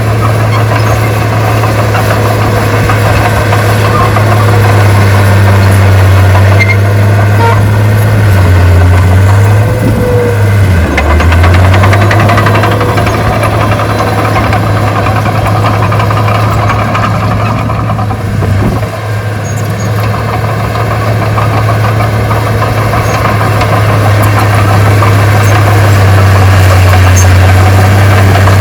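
Heavy diesel engine of an earthmoving machine running loud and steady with a mechanical clatter. Its speed dips briefly about nine to eleven seconds in, then picks back up.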